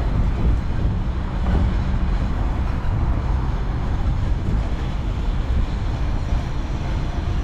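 Steady low rumble of the Mickey and Friends parking tram, heard from aboard one of its cars.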